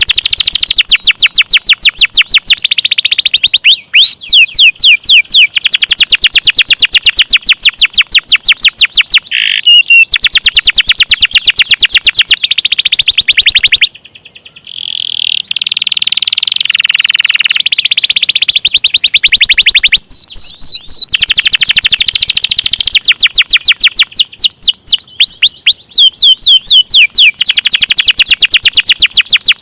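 Domestic canary singing long rolling trills, each a very fast run of repeated high notes, with a brief softer break about halfway through.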